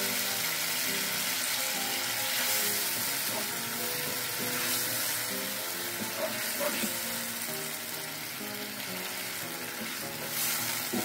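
Chilli spice paste sizzling in a wok with a splash of water just added, stirred with a wooden spatula. Soft background music plays underneath.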